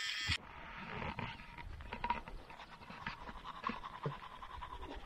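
Electric razor buzzing, switched off about half a second in, followed by faint rustling and small clicks.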